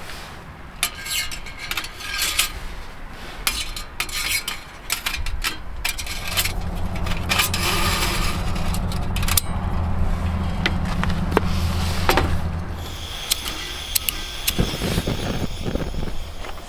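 Metal camp gear being handled: repeated clinks, knocks and scrapes of titanium stove parts and cookware. A steady low rumble runs through the middle for several seconds.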